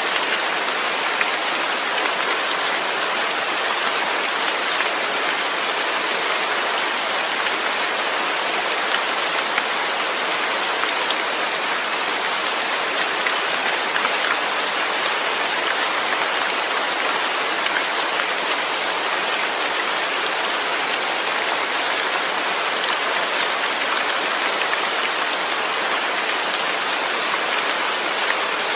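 Steady rain falling, an even hiss of rainfall with small drop ticks scattered through it.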